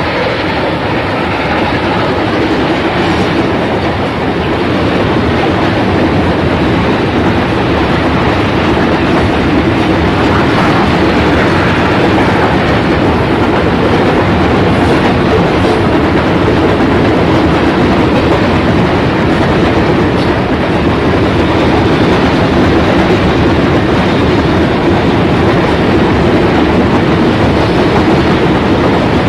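Excursion train running on the rails: a steady, loud rolling rumble with wheels clattering over the track, growing a little louder after the first few seconds.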